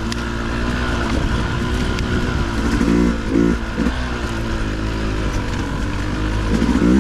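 Dirt bike engine running at low revs, with three short throttle blips around the middle.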